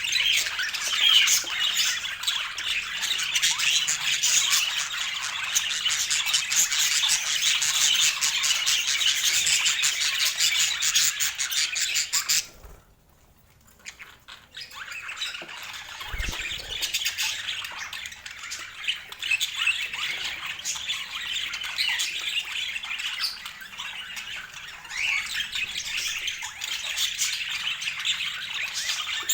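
Budgerigars chattering and squawking, a dense, continuous twitter that breaks off for about two seconds midway and then resumes somewhat quieter.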